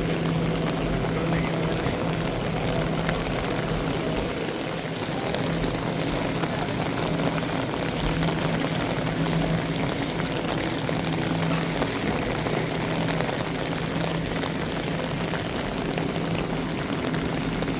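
Heavy rain and running, pouring water, a steady hiss, with a low hum that fades in and out several times.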